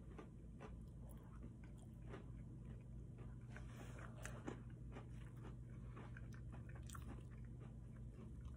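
A person chewing a mouthful of fried chicken tenders: many small, irregular clicks of chewing over a steady low hum.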